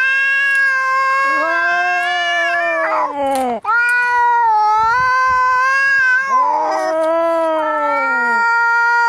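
Angry cats caterwauling: long, wavering, drawn-out yowls, each lasting several seconds, with short raspy breaks about three seconds in and again near seven seconds, the threatening yowl of cats squaring up to fight.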